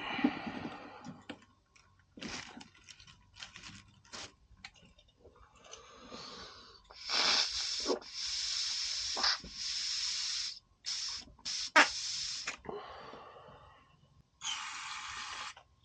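Light clicks and scrapes of small tools on a small-engine carburetor, then a series of short, loud hissing spray blasts, about five in a row and one more near the end, as its jet passages are blown out during cleaning.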